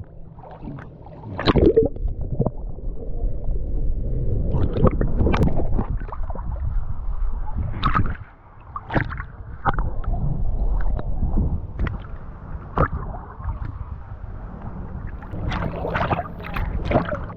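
Water splashing and gurgling around a canoe being paddled, in irregular strokes over a steady low rumble.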